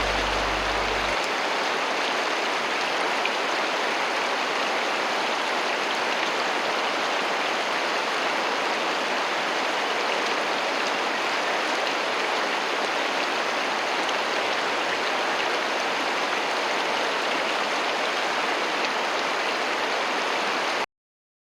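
Mountain stream flowing: a steady rush of water that cuts off suddenly near the end.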